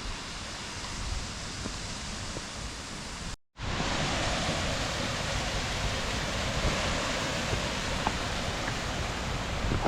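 Steady rush of water from Handapan Ella waterfall, which is running low after a dry spell. The sound cuts out for a split second about three and a half seconds in, then comes back a little louder.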